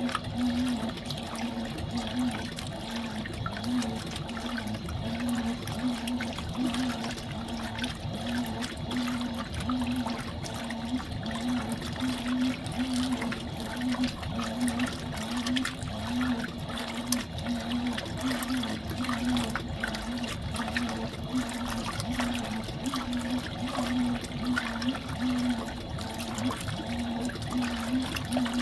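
Fisher & Paykel MW059 SmartDrive top-loading washing machine in its wash cycle: water churning and swishing in the tub over a motor hum that swells and fades about once a second.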